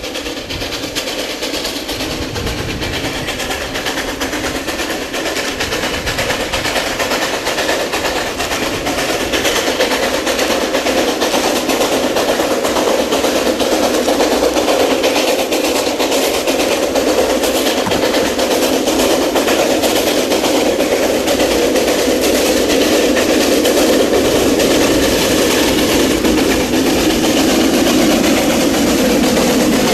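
A C2 narrow-gauge steam locomotive running with its train of coal wagons. The sound grows louder over the first third or so as the train draws near, then stays loud, with wheels clattering on the rails.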